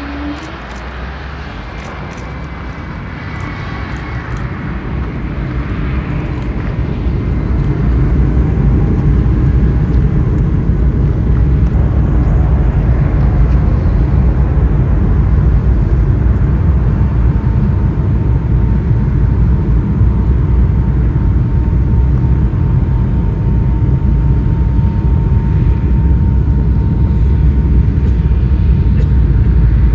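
Jet airliner's engines during takeoff: a heavy, deep rumble that builds over the first several seconds and then holds steady and loud.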